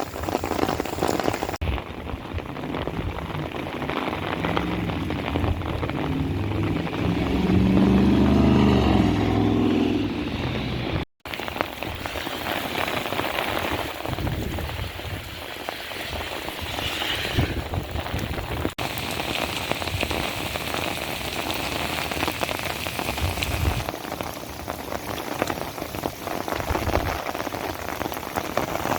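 Steady heavy rain falling and pattering on surfaces. A vehicle passes, its engine and tyres growing loudest about a third of the way in, and the sound cuts out for a moment just after.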